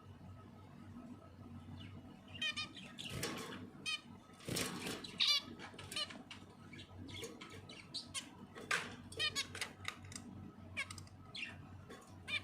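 Small pet birds chirping in quick runs of short high notes, with some rustling and fluttering.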